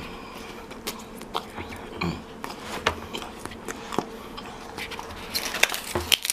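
A person biting and chewing chocolate-coated styrofoam: a run of sharp, irregular crunches that come thickest near the end.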